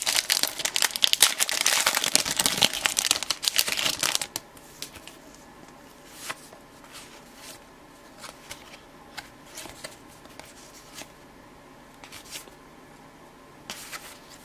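A baseball card pack's wrapper crinkling and tearing open for about the first four seconds, then quieter scattered slides and taps as the cards are handled one at a time.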